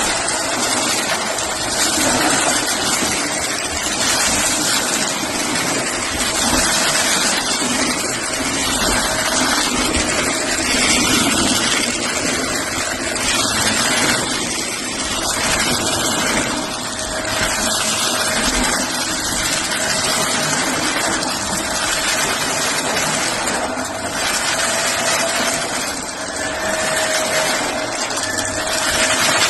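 Shark vacuum cleaner running steadily, a rushing airflow with a constant motor whine, as it vacuums a test mess off cardboard.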